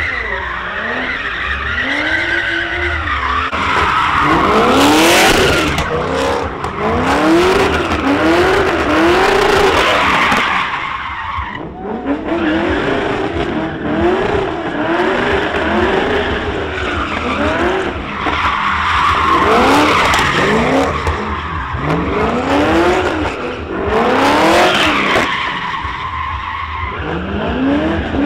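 A car doing a burnout: the engine revs up and drops again over and over, about one to two times a second, while the spinning rear tyres squeal and hiss throughout.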